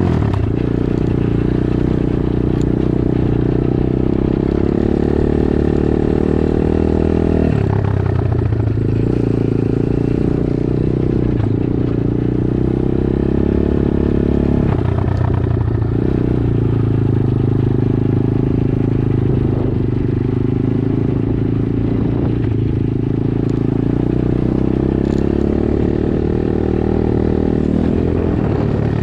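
Dirt bike engine running under load, its revs dropping and climbing again about five times as the throttle is rolled off and back on.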